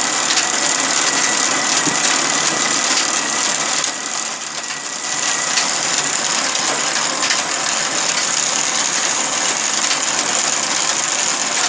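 Sawmill machinery running steadily, a loud mechanical din with a thin high whine, easing off briefly about four seconds in.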